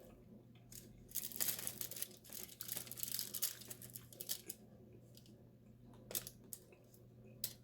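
Crackling eating noises from crisp-skinned baked chicken, densest from about one and a half to three and a half seconds in, with a few sharp clicks scattered through.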